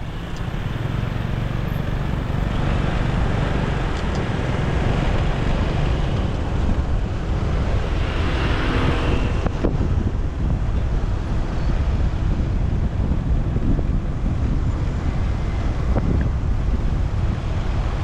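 Wind buffeting the microphone over engine and road noise from a motorcycle riding through city traffic, with a passing hiss about halfway through.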